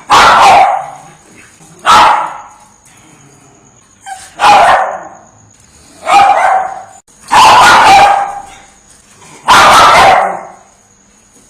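A dog barking loudly, one bark or a short run of barks about every two seconds, six in all.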